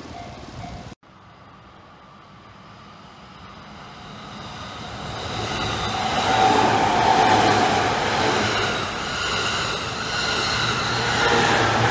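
A Takasaki Line electric train approaches the level crossing and passes. Its running noise builds from about four seconds in and is loud from about six seconds, with several steady whining tones over the rumble. At the very start a crossing warning bell rings briefly, then cuts off abruptly about a second in.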